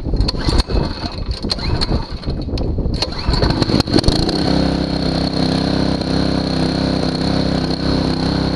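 Small engine of a portable gas-powered water pump being started: a few seconds of knocking and rattling, then it catches about four seconds in and runs steadily.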